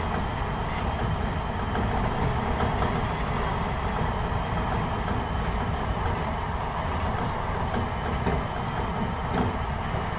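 Enshu Railway electric commuter train running along single track, heard from just behind the driver's cab: a steady noise of wheels on rail and running gear at a constant speed.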